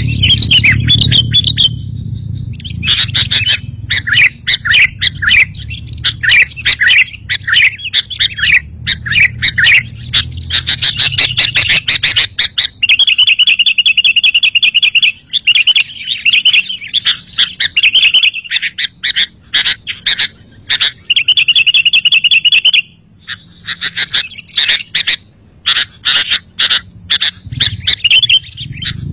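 Sooty-headed bulbul (kutilang) song: loud, busy chirping and chattering phrases, broken by stretches of rapid, even trills. A low rumble runs under the first several seconds.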